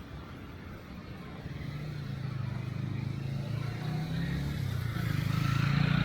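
A car approaching along the street. Its low engine drone and tyre hiss grow steadily louder from about a second and a half in, reaching their loudest near the end.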